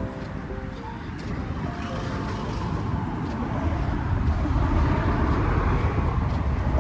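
Road traffic noise: a vehicle's engine and tyre rumble, growing louder from about halfway through as it comes close.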